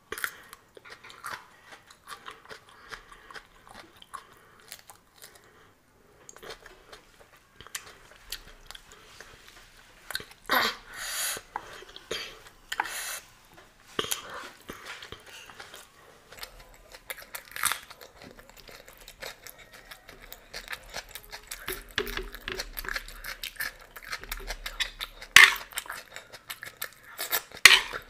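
Close-miked eating: chewing and crunching with wet mouth and lip-smacking sounds, with a few louder bites. Near the end a metal spoon scrapes and clinks on the plate.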